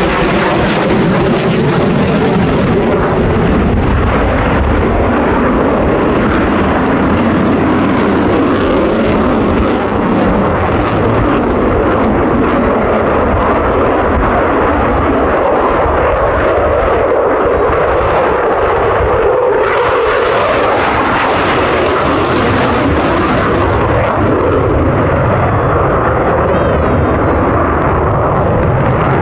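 Loud, continuous jet engine noise from F-15 fighter jets, with its pitch shifting slowly.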